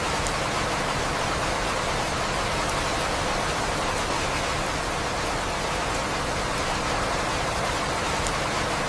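Rain falling steadily: an even hiss with a few faint ticks of single drops.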